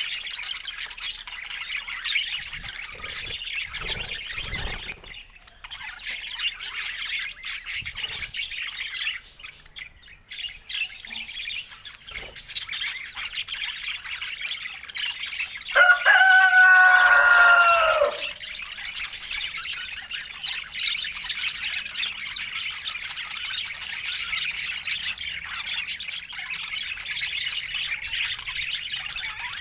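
A flock of budgerigars chattering and chirping without pause. Midway, one louder, drawn-out pitched call of about two seconds stands out, lower-pitched than the chatter.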